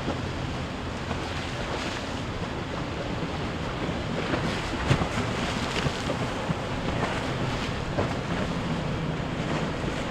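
Boat motors humming as boats pass, over the wash of waves, with wind gusting on the microphone.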